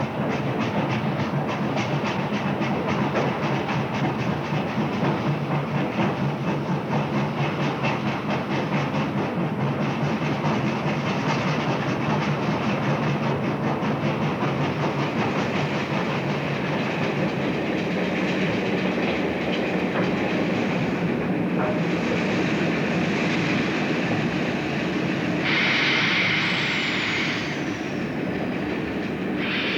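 A train running on rails, with a fast, even clatter in the first half that settles to a steadier run. Near the end there is a short burst of hissing and a falling tone.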